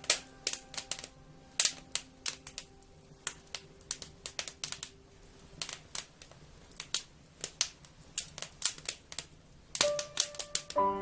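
Wood fire crackling: irregular sharp pops and snaps, some much louder than others. Soft sustained music notes sound faintly under the crackle, fading in the first few seconds and coming back near the end.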